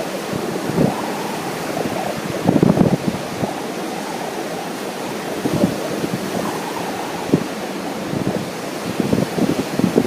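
Wind buffeting the microphone in irregular gusts over the steady rush of ocean surf.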